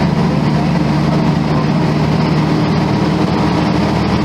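Volvo B10M bus's horizontal six-cylinder diesel engine running steadily at an even speed.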